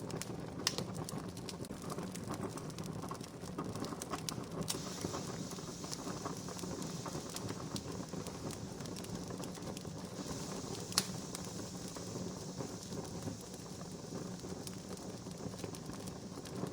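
Wood fire crackling steadily, with scattered small snaps and a few sharper pops, the loudest about a second in and again about eleven seconds in.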